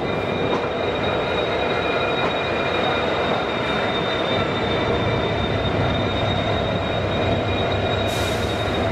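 Passenger express train running, heard from on board the coaches: a steady rumble of the running gear with a thin, steady high-pitched squeal from the wheels over it. A short burst of hiss comes in about eight seconds in.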